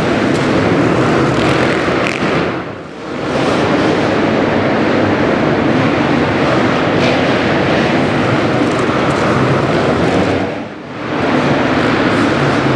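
Motocross bike engine running loud and steady under throttle. It eases off in two short dips, about three seconds in and near the end, before picking up again.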